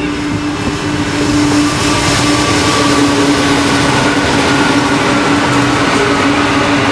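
Freight train led by two Pacific National NR class diesel-electric locomotives passing close by, engines working, followed by the noise of container and tank wagons rolling past. The sound grows louder about a second in and stays loud, with a steady low engine tone under it.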